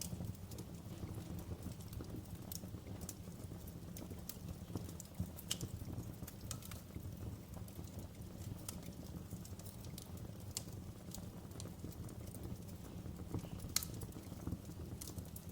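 Wood fire crackling in a fireplace: irregular sharp pops and snaps scattered over a steady low rumble.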